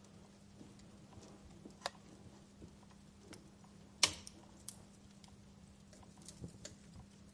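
Wood fire in a fireplace crackling, with scattered sharp pops; the loudest snap comes about four seconds in, a smaller one about two seconds in.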